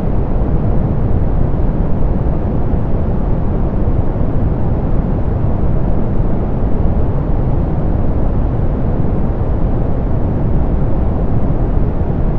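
Steady soft pink noise, an even hiss weighted toward the low end, with the highs rolled off, making it dull and rumbling.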